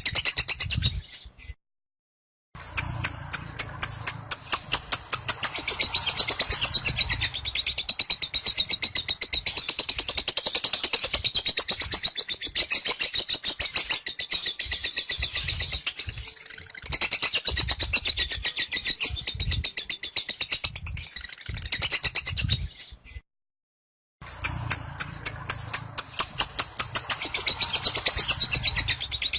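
Lovebird 'ngekek': a long, unbroken, rapid high-pitched chattering trill, many pulses a second. It cuts out completely twice for about a second, once near the start and once near the end.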